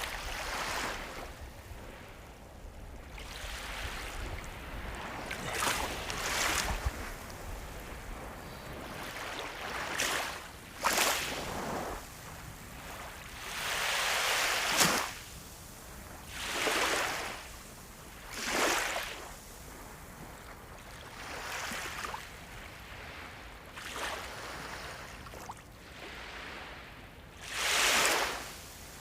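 Sea waves breaking and washing in, one surge of surf after another every two to three seconds, the biggest about halfway through and again near the end.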